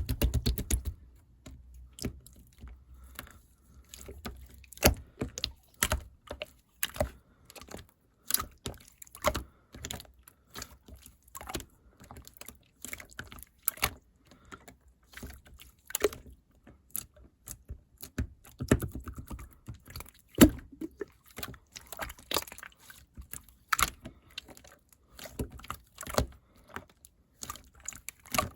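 Irregular sharp clicks and taps, one to three a second, with a soft low thud near the start and another about two-thirds through.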